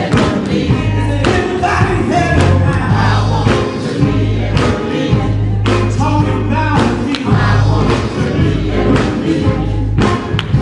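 Male gospel group singing live with a band: several male voices over a heavy, sustained bass line and a steady beat.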